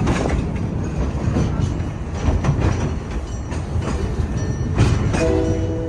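Train running along the track: a steady low rumble with the clickety-clack of wheels over the rail joints. A held chord of several steady tones starts near the end.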